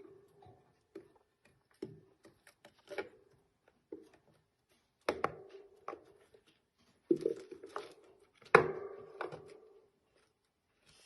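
Irregular knocks and taps, a dozen or so, growing louder, the strongest about five, seven and eight and a half seconds in.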